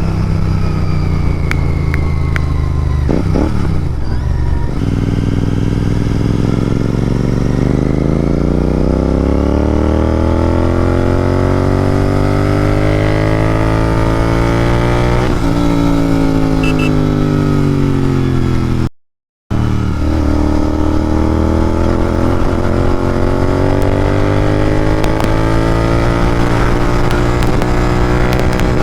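Royal Enfield Continental GT 650's parallel-twin engine, through Red Rooster Performance aftermarket exhausts, pulling under way. Its note climbs slowly as the bike gains speed, then eases back down. After a brief cut in the sound it climbs again.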